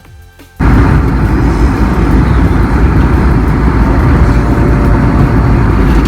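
Airliner cabin noise in flight: a loud, steady roar of engines and rushing air. It cuts in suddenly about half a second in, after a few soft music notes.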